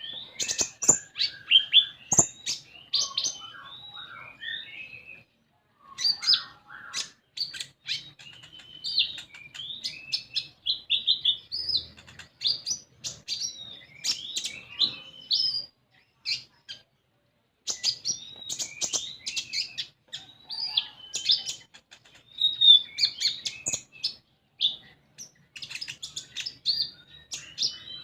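Konin (common iora) singing a busy, varied song of quick chirps, whistled notes and trills, with short pauses about five and sixteen seconds in.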